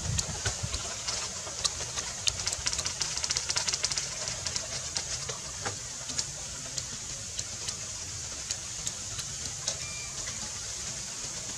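A person chewing grilled mouse meat, with a close, irregular series of sharp mouth and crunching clicks, packed into a fast run between about two and four seconds in, over a steady high hiss.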